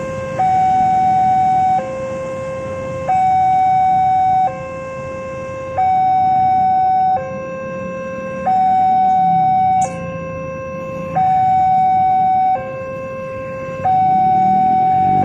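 Railway level-crossing electronic warning alarm sounding a steady hi-lo two-tone, switching between a higher and a lower pitch about every second and a third, over a low rumble of traffic.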